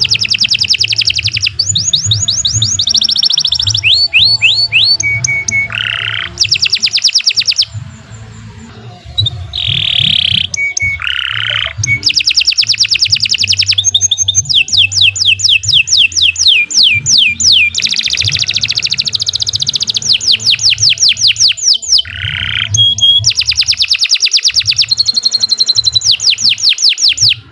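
Domestic canary singing a long, continuous song of fast trills, each a rapid run of repeated high notes, with lower buzzy phrases between them. The song softens briefly about eight seconds in, then carries on.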